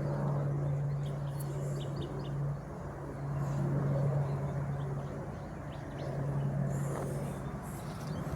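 A steady low engine hum, briefly dropping out about two and a half seconds in, with faint bird chirps over it.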